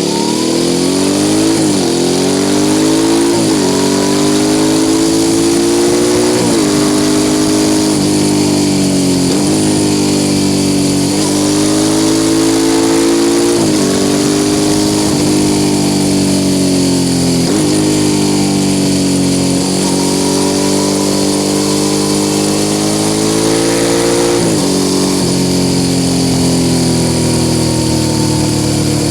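Suzuki SV650 S's V-twin engine through a Mivv aftermarket exhaust, heard onboard while riding: the engine note rises under throttle and drops sharply again and again, about every two seconds at first, as gears are changed, then swells and eases more slowly.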